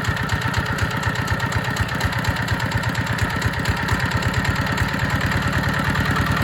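ZR185 single-cylinder direct-injection diesel engine running fast, with an even, rapid train of firing knocks that grows a little louder toward the end.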